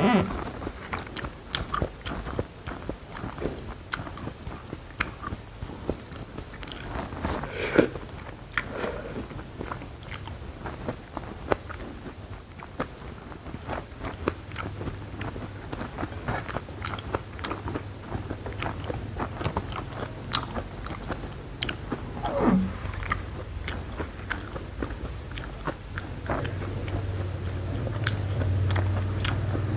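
Close-miked eating: crisp bites and crunchy chewing, with many sharp crunches and a few louder ones. A low hum comes in underneath about halfway through.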